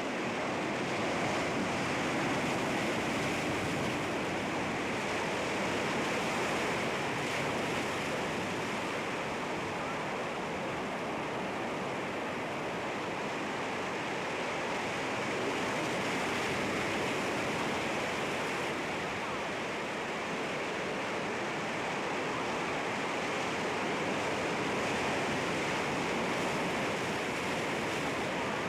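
Sea waves washing against rocks: a steady rush of surf that swells and eases slowly.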